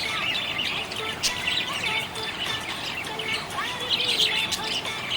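Budgerigars chirping and chattering, many short overlapping chirps and quick pitch glides running continuously.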